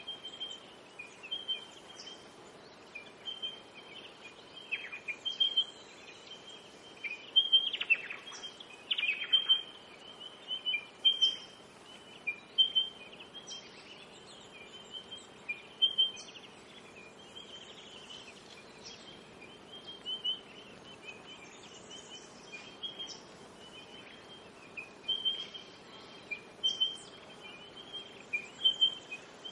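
Birds chirping, short high calls repeating every second or so throughout, a few of them sweeping downward, over a faint steady background hiss.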